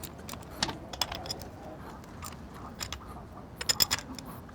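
Light metallic clicks and clinks of hand tools and hardware at work on a motorcycle, scattered and irregular, with a quick run of about four clicks shortly before the end.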